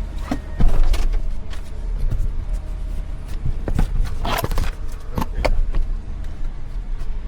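Truck engine running with a steady low rumble, with repeated rattles and knocks; the loudest cluster of knocks comes a little past halfway.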